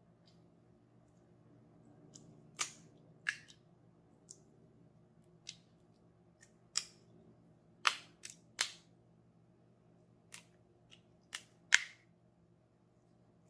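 A series of about a dozen sharp, irregular clicks and snaps from hands handling toys and their packaging, the loudest near the end.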